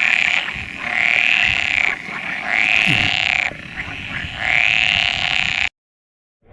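An animal calling four times in a row, each call about a second long and rising then falling in pitch; the sound cuts off suddenly near the end.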